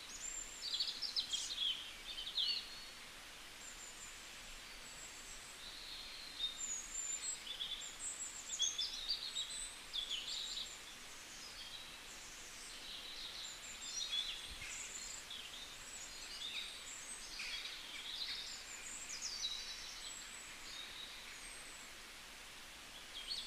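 Small birds chirping and twittering in scattered runs of quick, high notes over a steady background hiss.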